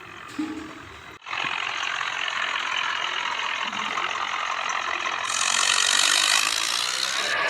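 Tractor engine running steadily. The sound cuts out briefly about a second in, then comes back and grows louder with more hiss after about five seconds.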